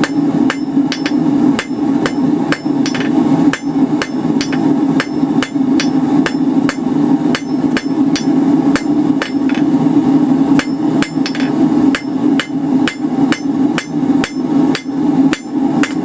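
A rounding hammer strikes hot 1/4-inch round bar on an anvil in a steady rhythm of about three blows a second, each with a short metallic ring, drawing out and cleaning up a taper. A steady low hum runs underneath.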